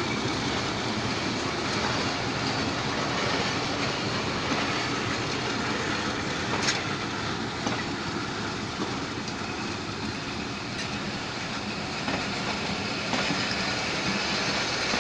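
Passenger train's coaches rolling along the rails, a steady rumble and rattle with wheel clatter, and one sharp clank about halfway through.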